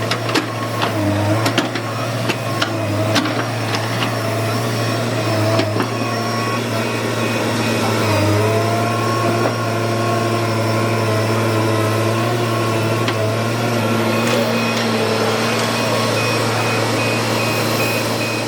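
Hyundai 210W wheeled excavator's diesel engine running steadily under load, with scattered sharp knocks and clanks over the first six seconds, then a steady run.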